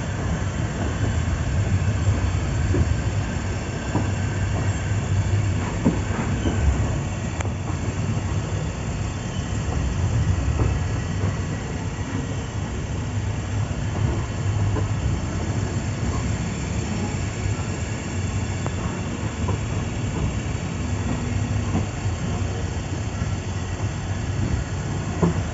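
Express train rolling out of the station, heard from on board: the carriage's steady low rumble, with scattered clacks as the wheels run over rail joints and points.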